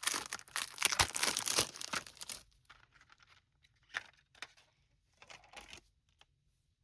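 Crinkly wrapping on a CD single being torn and crumpled for a couple of seconds, followed by a few short rustles and clicks as the case is handled.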